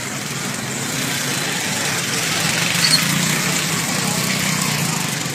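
Motorcycle engine running amid street noise, swelling a little louder over the first three seconds, with voices faint underneath.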